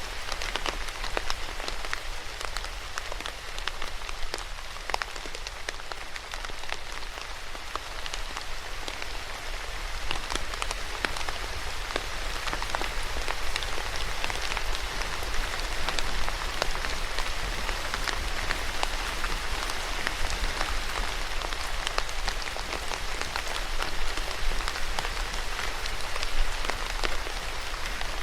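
Steady rain falling, with many individual raindrops pattering close by over a constant hiss.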